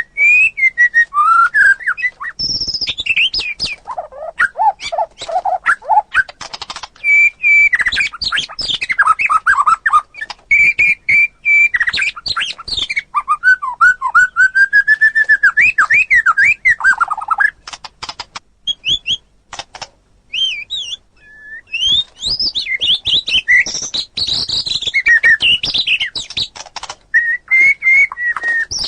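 White-rumped shama (murai batu) in full, vigorous song: rich fluting whistles that slide up and down, mixed with fast clicking rattles and harsher notes, with a brief lull a little past the middle.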